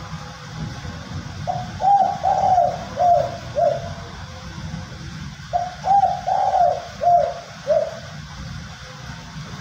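Male spotted dove (tekukur) cooing its 'tumpang sari' song: two phrases of about six coos each, a couple of seconds apart.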